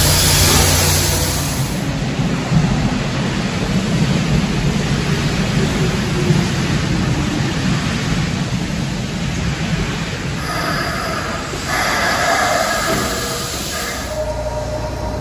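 Nishitetsu electric commuter trains at a station platform: a low rumble of wheels on rails as one train runs past, then another train pulling in and slowing to a stop, with steady high-pitched whines in the last few seconds as it slows.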